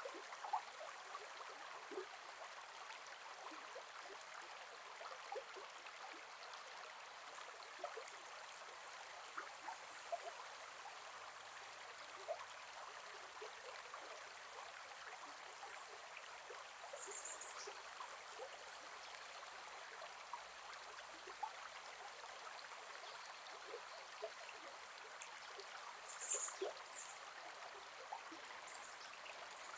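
Gentle forest river flowing: a steady, even rush of water, dotted with many small splashes and gurgles. Two brief high chirps sound, one about halfway through and one near the end.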